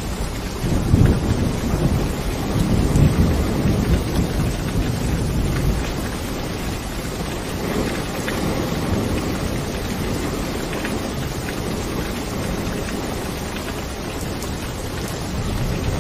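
Steady rain with thunder rumbling low beneath it, the rumble swelling in the first few seconds and then easing back to a steady storm.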